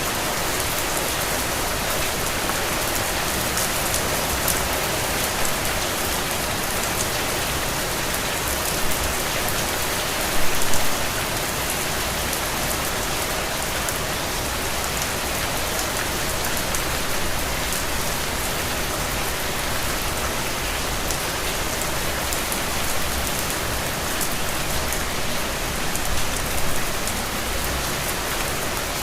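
Steady rain falling: a dense, even hiss of drops with scattered closer ticks, and a few brief louder spatters about ten seconds in and again near the end.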